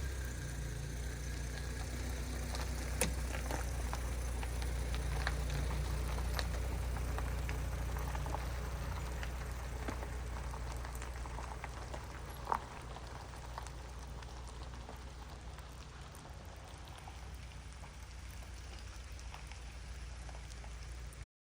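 Rain falling, with many scattered drops ticking on a surface and a sharper drop about 3 s and 12.5 s in, over a low steady rumble that fades after about the first half. The sound cuts off just before the end.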